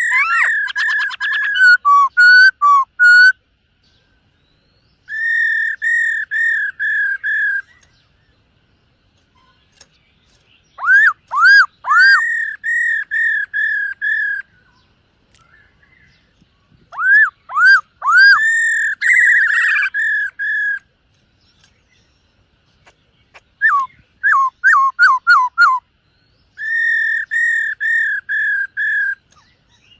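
Black-throated laughingthrush singing: loud phrases of rapidly repeated clear whistled notes, some sweeping upward, in six bouts of two to four seconds separated by short pauses.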